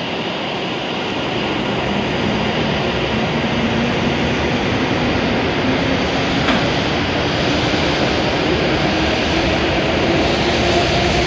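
W7 series Shinkansen train pulling out of the station and picking up speed: the traction motors' whine rises steadily in pitch over the rumble of the passing cars, growing slowly louder.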